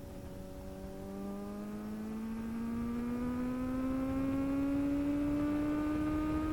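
Kawasaki Z900's inline-four engine pulling hard in first gear, its pitch climbing steadily and getting louder as the revs rise from about a second in.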